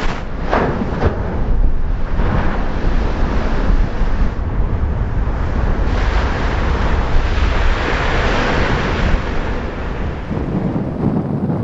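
Storm waves crashing and washing against a seawall under heavy wind buffeting the microphone, the surf swelling twice, a couple of seconds in and again around the middle.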